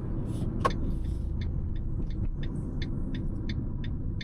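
Steady low road and engine rumble inside a Maruti Brezza's cabin, with one sharp click just under a second in. The turn indicator then starts ticking about three times a second, signalling a left turn.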